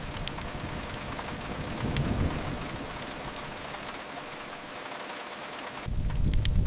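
Steady rain hiss. A low rumble underneath fades away in the middle and returns abruptly about six seconds in.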